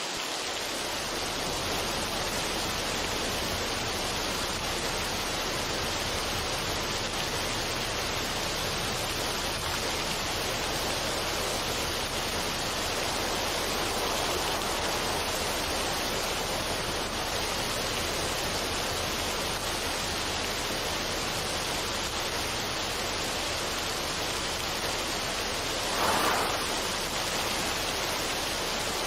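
Steady, even rushing noise played as a study or sleep background, with no music in it, swelling briefly near the end.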